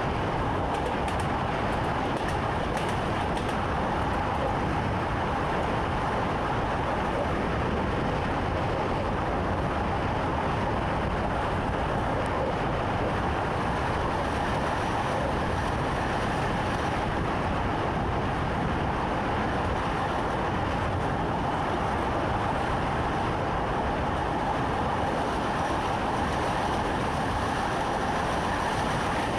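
Passenger train running at a steady speed, heard from inside the driver's cab: a continuous rumble of wheels on rail and running gear.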